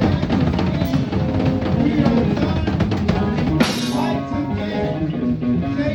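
Live band jamming, with drum kit, bass and guitar. A sharp crash comes a little past halfway.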